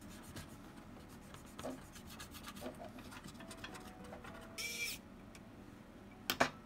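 Light clicks and rubbing of small parts being handled as the circuit board is fitted back onto a Panasonic RQ-SX30 cassette walkman, with a brief high squeak nearly five seconds in and a sharp click near the end.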